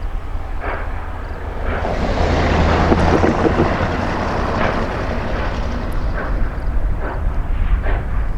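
Georgia Northern Railway 2-8-2 steam locomotive No. 105 working, its exhaust chuffing at a slow, even beat over a steady low rumble. A loud rush of steam hiss swells up about two seconds in and fades after a couple of seconds.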